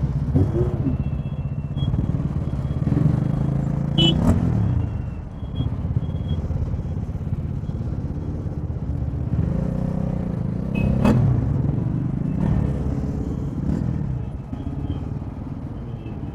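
Motorcycle engine running on the move, its note rising and falling with the throttle, with sharp clicks about 4 and 11 seconds in.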